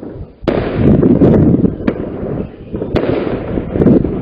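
New Year fireworks and firecrackers going off all around, a dense rumble of overlapping bangs with sharp, close cracks about half a second in, near two seconds and at three seconds.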